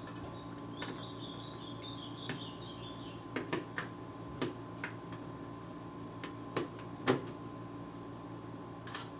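Scattered light clicks and taps of tools and plastic parts being handled while a PS3 console is taken apart, about ten in all, irregularly spaced. A brief high warbling chirp comes about a second in, over a steady faint hum.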